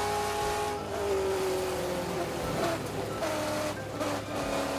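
Race car engine running at speed, its pitch sagging and then stepping down and back up several times.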